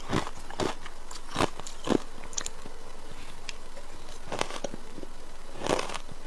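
Ice being bitten and chewed: sharp, crisp crunches, four in quick succession, then a pause of about two seconds before two more.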